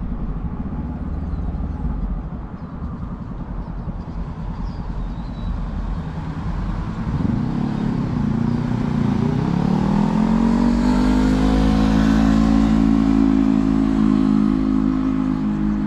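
A motor vehicle's engine accelerating close by: about seven seconds in its pitch dips, then climbs and holds steady and loud, over a low rumble of wind and road noise.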